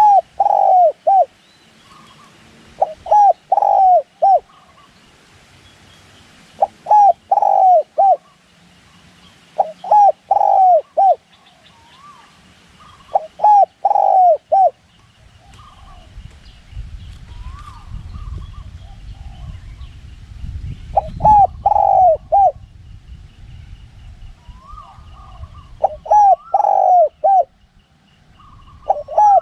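Spotted dove cooing: short phrases of three or four deep, rolling coos, repeated about every three seconds. Partway through, a low rumble of wind sits under the calls.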